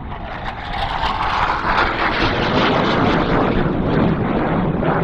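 Jet aircraft flying past low, its noise building over the first two seconds and then staying loud.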